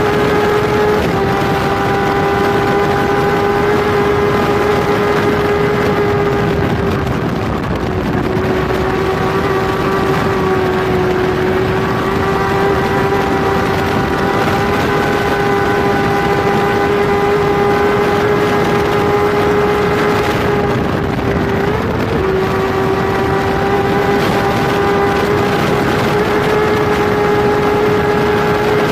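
Kawasaki superbike's inline-four engine running flat out at high revs, heard onboard over the rush of wind, holding a steady high pitch with a few brief breaks where it shifts gear.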